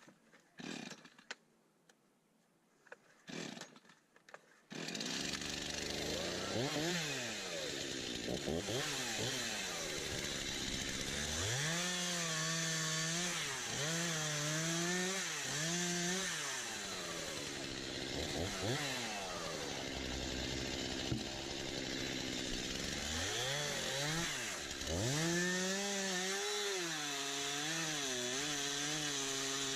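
A few faint clicks, then about five seconds in a Stihl MS 251 C two-stroke chainsaw comes in loud, its engine revving up and down again and again as it cuts wood.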